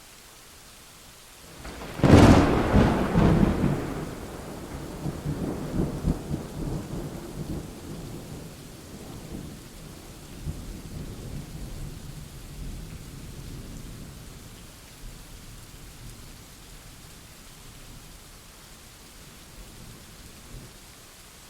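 Thunderclap over steady rain: a sudden sharp crack about two seconds in, then a long rolling rumble that slowly dies away over the following fifteen seconds or so, with the hiss of rain underneath throughout.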